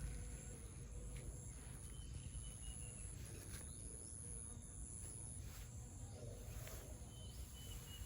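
Morning garden ambience: a steady high-pitched insect trill, loudest in the middle, with a few faint bird whistles and chirps over a low rumble.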